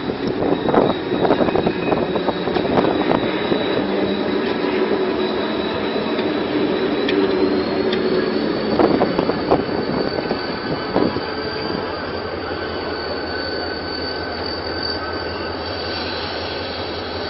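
Tezgam express's diesel locomotive and coaches pulling into a station platform. A steady high-pitched wheel squeal runs throughout and steps slightly up in pitch about halfway. For roughly the first ten seconds a low engine hum and irregular knocks and clatter from the wheels sit under it.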